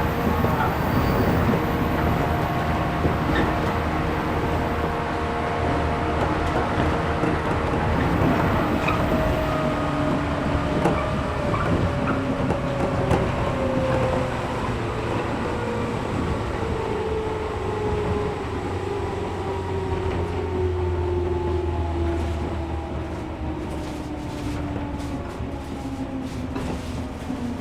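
Interior running noise of a 113 series resistance-control electric train, heard from inside the car: wheels rumbling on the rails under the motor and gear whine. The whine falls slowly and steadily in pitch as the train loses speed, and a few light clicks come near the end.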